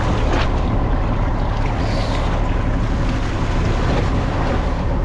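Fishing boat's engine running steadily, a low hum under the wash of sea and wind, with a brief knock about half a second in.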